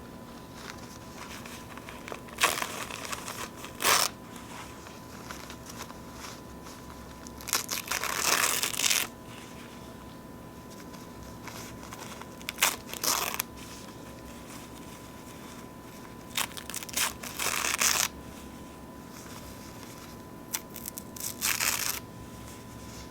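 Paper napkins being torn close to the microphone: five separate rips, each lasting a second or so, with short pauses between them.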